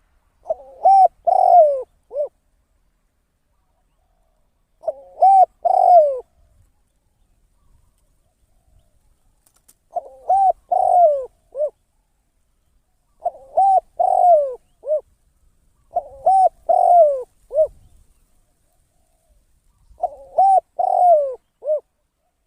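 Spotted dove (decoy bird) cooing: six phrases of several rising-and-falling coo notes, each ending in a short final note, repeated every three to five seconds.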